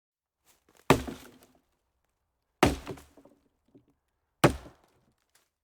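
Three sharp impacts, evenly spaced less than two seconds apart, each dying away quickly.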